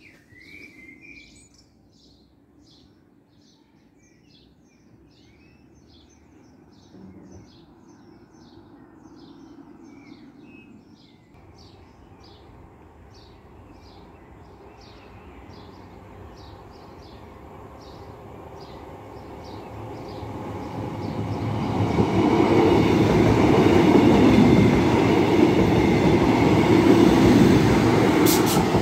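Level crossing warning alarm pipping about twice a second while a Northern passenger train approaches. The train's running and wheels on the rails grow louder and are loudest in the last several seconds as it passes over the crossing.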